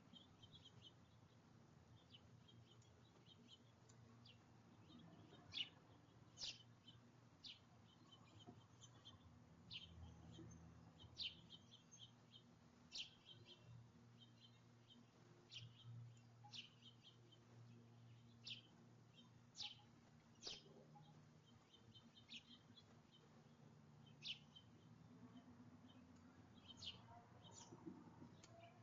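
Faint, scattered short chirps of small backyard birds at a feeder, a few louder chirps standing out, over a faint steady low hum.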